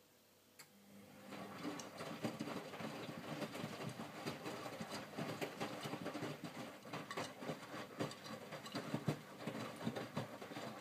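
Miele W562 washing machine in its main wash: after a click and a brief motor hum about a second in, the drum turns and the wet laundry inside swishes and flops over and over, an irregular run of soft knocks and sloshing.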